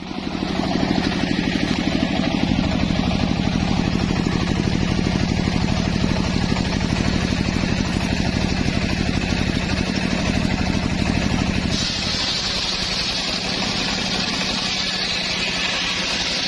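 Engine driving a homemade circular saw rig, running steadily with a fast even pulse. About twelve seconds in the sound changes abruptly: the low hum thins and a high hiss grows.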